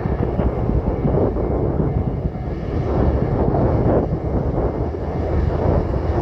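JR Shikoku 9000-series rail transport car passing over the crossing: a steady, loud, low rumble of its diesel engine and wheels on the rails, with a few faint knocks.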